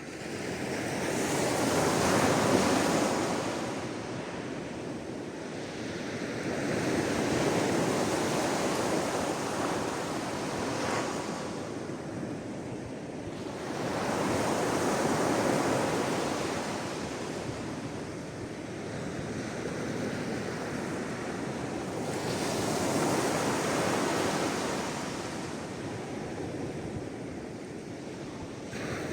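Sea waves washing onto the shore, rising and falling in four slow surges, one every six to eight seconds.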